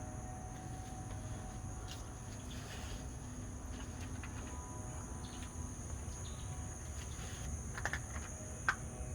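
Insects trilling in a steady high-pitched drone, over a low rumble.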